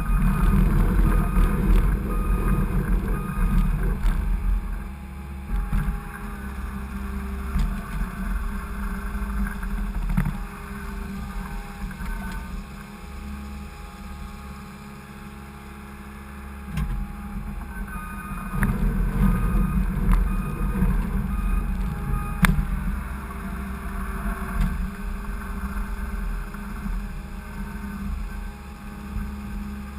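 Skid steer engine running and working under changing load, its rumble rising and falling, with a few sharp knocks along the way.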